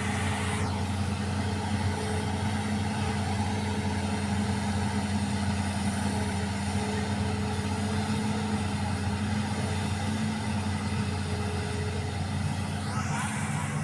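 Excavator's diesel engine running steadily with an even, low hum.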